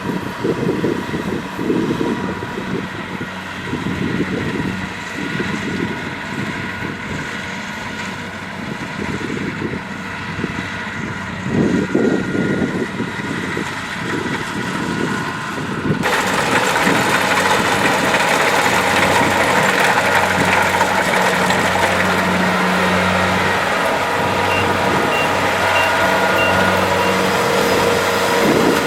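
Kubota DC-70 Plus rice combine harvester running steadily with its engine and machinery working. About halfway through, the sound abruptly turns louder and fuller.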